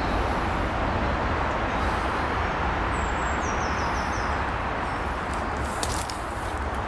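Steady outdoor rushing noise with a low rumble. A short run of high bird chirps, stepping down in pitch, comes about three seconds in, and a few light snaps come near the end.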